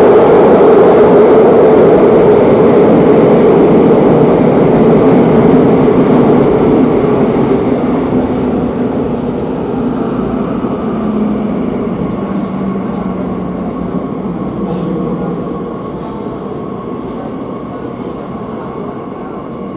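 Madrid Metro series 8000 train heard from inside the car, running loud at speed, its noise steadily falling away as it slows, with a low whine gliding down near the middle.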